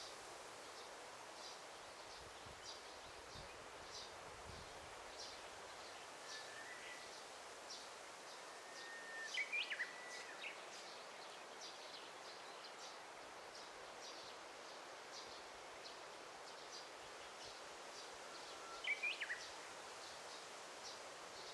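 Forest ambience: a steady soft hiss with a faint high chirp repeating about once a second. A bird sings twice, each time a long held whistle followed by a quick warbled flourish.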